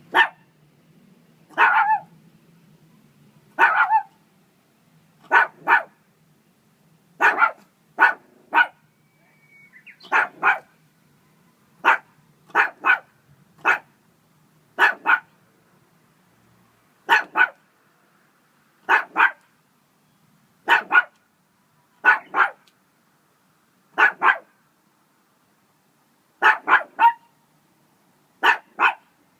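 A dog barking over and over, short sharp barks often coming in quick pairs, about one bark or pair every two seconds.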